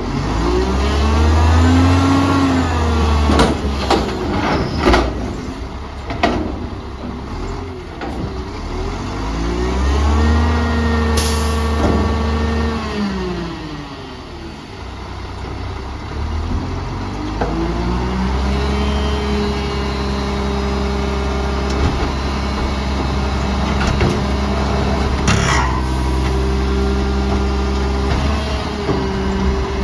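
Garbage truck's diesel engine revving up, holding and dropping back several times, then running at a steady raised speed for the second half. Short hisses of air are heard twice, and a few clunks come in the first few seconds.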